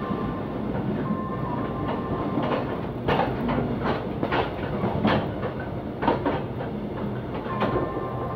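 Night train running at speed, heard from inside a carriage. The wheels give a steady rumble on the rails, with irregular clacks over rail joints and points through the second half. A faint high steady tone comes in near the start and again near the end.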